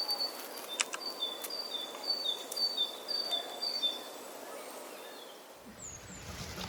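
A songbird singing a quick series of repeated two-note high whistles, about two pairs a second, which stop about four seconds in. A steady outdoor hiss runs underneath.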